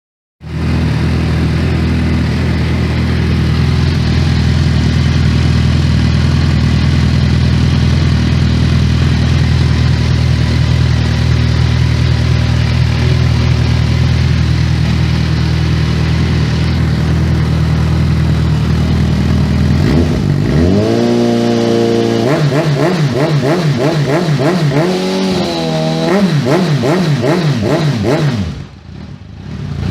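Suzuki Bandit 650N's inline-four engine through an aftermarket exhaust, idling steadily for about twenty seconds, then revved in a series of quick throttle blips.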